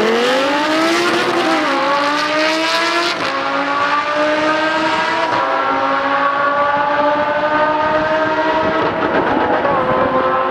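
Two supercars, one a green Lamborghini Huracán with its V10, accelerating hard down a drag strip side by side. The engine notes climb and drop back at each of several quick upshifts.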